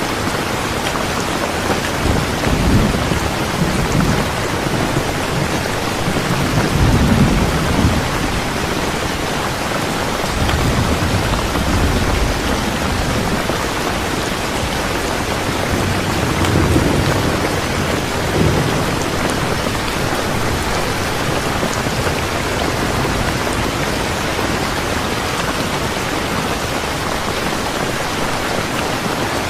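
Steady heavy rain, with low thunder rumbling in slow swells a few times.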